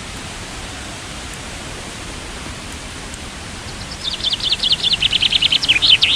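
Steady rushing of a waterfall. About four seconds in, a bird sings a loud, rapid trill of short chirps that steps down in pitch until the end.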